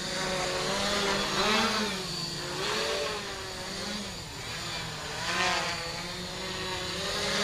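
Radio-controlled tricopter's motors and propellers whining in flight, the pitch wavering up and down every second or so as the motor speeds change.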